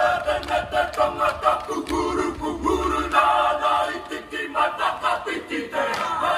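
A group of voices chanting and singing together in a strong, steady rhythm, as in a staged tribal dance.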